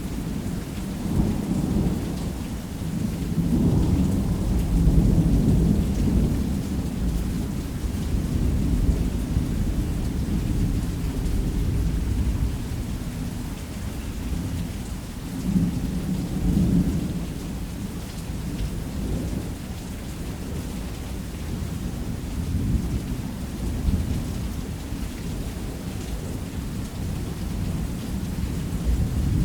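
Heavy rain falling steadily with deep rolling thunder rumbling beneath it. The thunder swells over the first several seconds, again a little past halfway, and once more at the very end.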